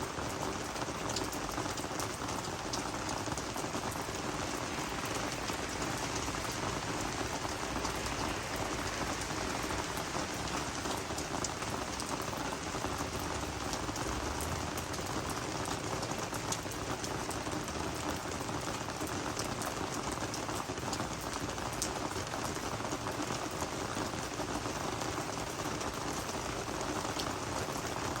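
Steady rain falling on garden vegetables and flowers, an even patter with many small drop ticks.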